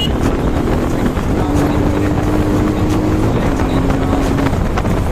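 Bajaj Pulsar NS200's single-cylinder engine pulling steadily under way, with wind buffeting the microphone; the engine note holds steady and drops slightly about three seconds in.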